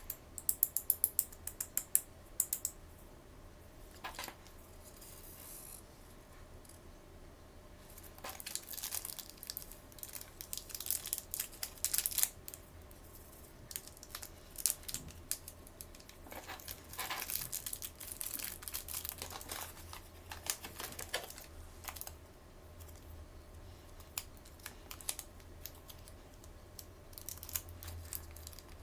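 Blind-bag and box packaging being handled and opened by hand: a quick run of small clicks near the start, then bouts of crinkling and tearing of plastic wrapping, with scattered taps and clicks.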